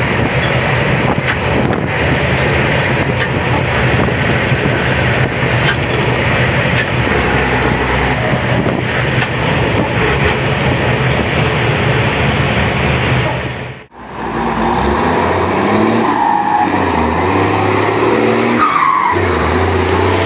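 Mercedes-Benz 1721 bus's turbo-diesel engine running loud through a custom turbo exhaust, with the engine brake applied. About fourteen seconds in the sound cuts off abruptly, then the engine comes back with its pitch stepping up and down.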